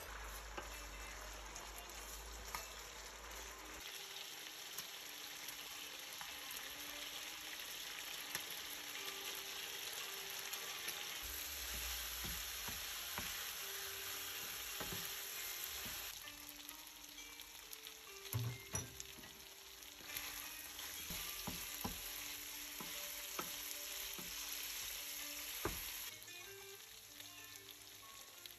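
Chicken pieces sizzling steadily as they fry in oil in a nonstick pan, with a wooden spoon stirring and clicking against the pan now and then, a cluster of louder knocks about two-thirds of the way through.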